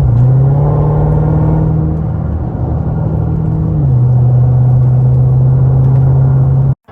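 Dodge muscle car's V8 engine running at steady low revs, its pitch dropping a step about four seconds in. The sound cuts off abruptly near the end.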